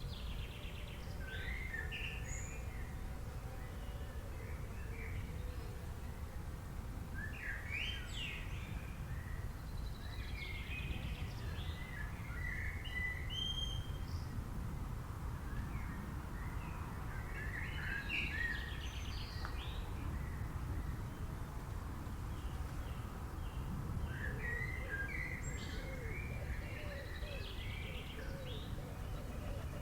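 Songbirds singing in short bursts of chirps and trills every few seconds, over a steady low rumble of background noise.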